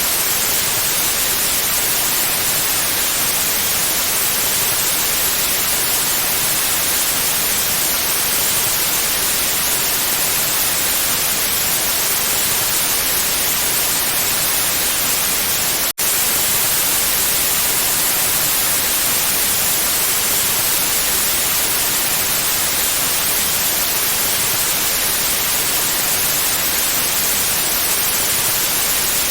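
Pure white noise: a steady, even hiss with no tone or rhythm, brightest in the treble, broken by a split-second dropout about halfway through.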